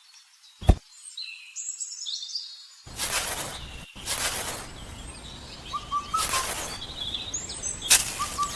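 Birds chirping in short high calls, with a steady rushing noise that starts about three seconds in and swells louder several times.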